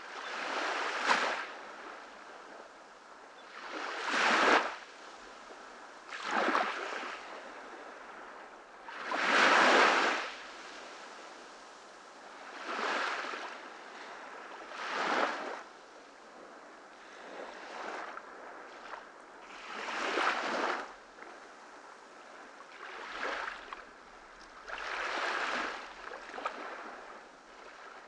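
Ocean waves breaking on a tropical beach: about ten surges of surf, each a second or so long, arriving every two to three seconds over a steady background wash, one louder than the rest about a third of the way through.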